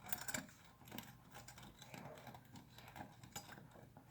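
Faint, irregular small clicks and crinkles of thin aluminium mesh being pressed into place by hand over a small aluminium cup. They come a little thicker in the first half second.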